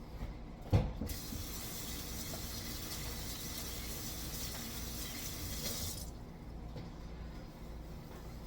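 A sharp knock about a second in, then a steady hiss for about five seconds that cuts off suddenly.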